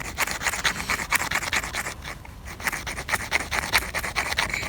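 Magnesium fire-starter rod being scraped by a striker in quick repeated strokes, shaving magnesium onto tinder, with a short break about two seconds in.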